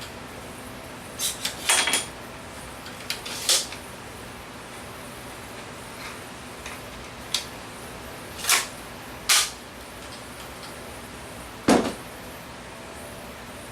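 Irregular sharp knocks and clicks of hard objects being handled, about eight in all, some coming in quick pairs.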